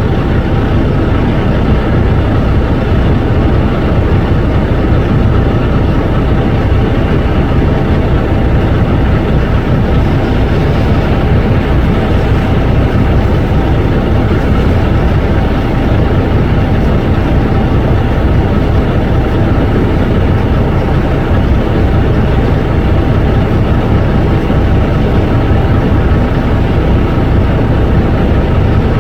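Tractor's diesel engine running steadily and loud, a deep even drone with no clear revving up or down.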